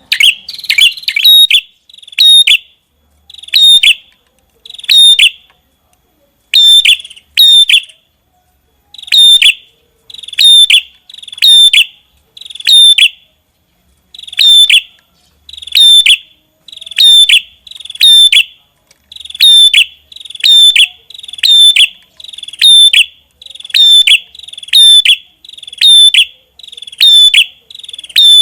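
Prenjak kepala merah songbird calling hard and nonstop: loud, sharp, high notes repeated about once a second, with a couple of brief pauses.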